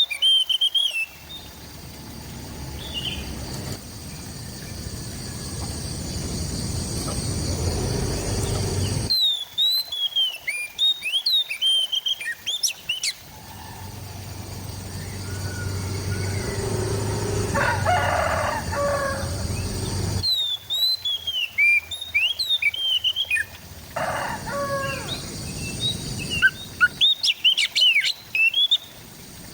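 Oriental magpie-robin (kacer) singing in bursts of quick, varied high chirps and whistles, four times. Between the bursts a rushing noise swells up and cuts off sharply, and a lower, drawn-out call sounds twice in the gaps.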